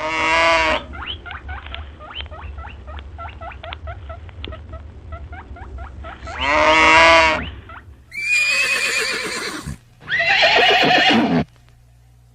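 A horse whinnying twice, with a run of quick hoof clops between the calls, then two harsher animal calls about two-thirds of the way through.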